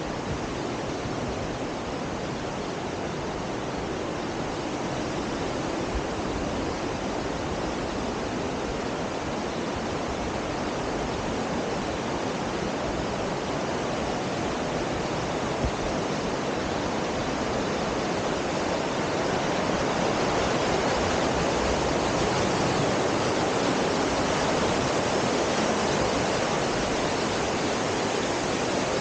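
Heavy rain falling steadily through forest, an even hiss that grows a little louder about two-thirds of the way through.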